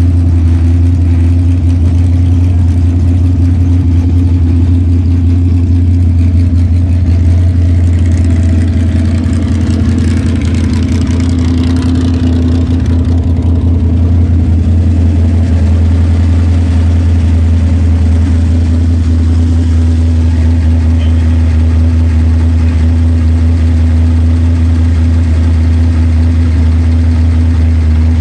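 Freshly built 451 cubic-inch big-block V8 running steadily on its first start-up, a loud, even low rumble. About ten seconds in it briefly picks up a little, then settles back.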